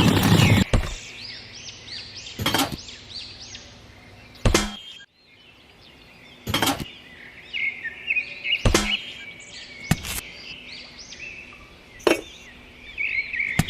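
Small birds chirping continuously, with sharp knocks or taps about every two seconds; the first knock is the loudest.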